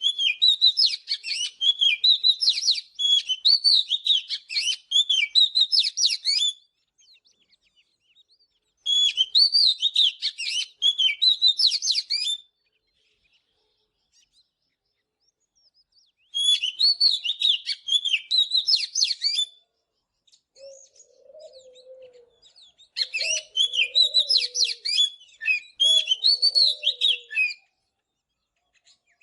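Oriental magpie-robin singing in four bursts of rapid, varied whistled phrases, each a few seconds long with short pauses between. Fainter, lower notes join in during the second half.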